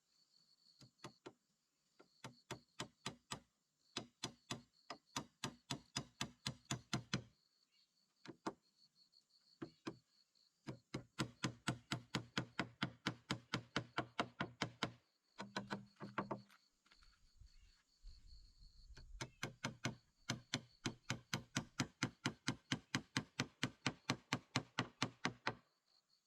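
Repeated knocking in even runs of about three or four strikes a second, broken by short pauses: tool blows on wood or bamboo during hut building.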